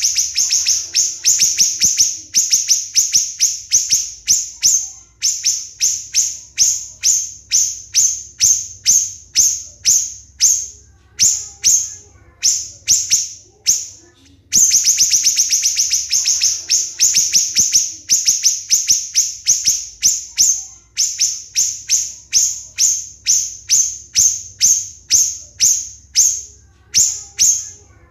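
Siri-siri bird singing a long string of sharp, high-pitched notes. They come in a fast, tight trill at the start and again about halfway through, and in between space out to about three notes a second.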